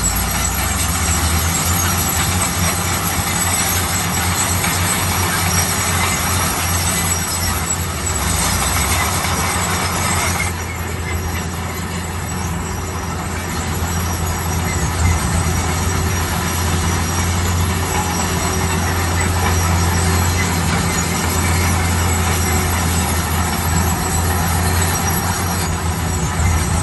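Bulldozer's diesel engine running steadily under load with a constant low drone and a noisy grinding rumble over it. The grinding eases for a few seconds about ten seconds in, then returns.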